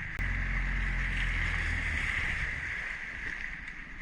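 Small outboard motor running steadily with a low hum, under a steady hiss of wind and water.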